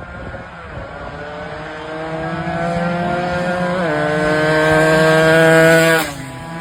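Yamaha AX100 two-stroke single-cylinder racing motorcycle engine accelerating hard. Its pitch climbs steadily and dips briefly at a gear change a little past halfway, then climbs louder again before dropping abruptly near the end.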